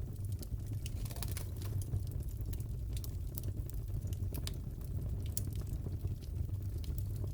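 Crackling wood fire in a fireplace: irregular sharp crackles and pops over a steady low rumble.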